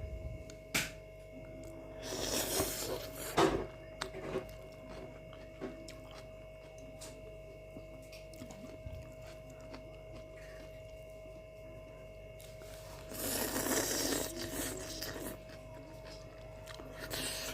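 Close-up eating sounds from a bowl of fried noodles: small clicks and chewing, with two long, noisy rushes about two seconds in and again near the thirteen-second mark, over a steady faint hum.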